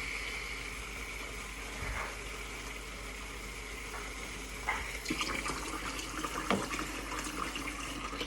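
Water running steadily from a kitchen tap into a bowl, filling it, with a few light knocks in the second half. The flow stops abruptly at the end.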